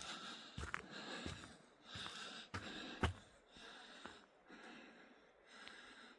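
A hiker breathing hard in rhythmic, wheezy breaths while walking uphill, with a few short knocks of footsteps on the trail.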